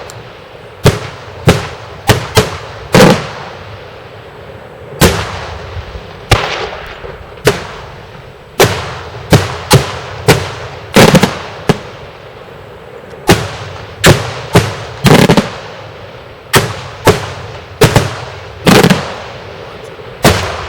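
Daytime fireworks shells bursting in a rapid, irregular series of loud bangs, about one to two a second, each followed by a short echoing tail.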